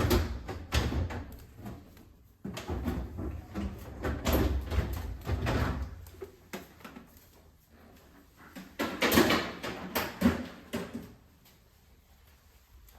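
Refrigerator shelves and drawers being slid out and lifted free, plastic and glass parts knocking and rattling in three bursts of handling, quieter near the end.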